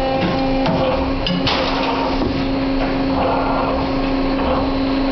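CNC wire bending machine running: a steady electric hum under mechanical noise, with a few sharp clicks about a second and a half in.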